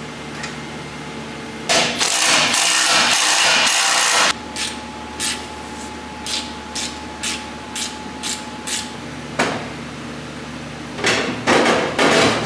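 Workshop tool noise while a truck bed panel is being fitted: a loud power-tool run for a couple of seconds, then a string of short sharp taps about three a second over a steady hum, then more loud tool noise near the end.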